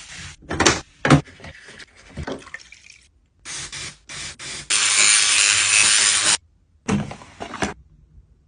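A few knocks, then spraying hiss in several bursts, the longest and loudest lasting about a second and a half.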